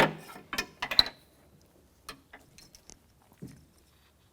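Small hard plastic and metal door-lock parts clicking and clinking as they are handled inside a car door shell: a few sharp clicks in the first second, one with a brief bright ring, then faint scattered ticks.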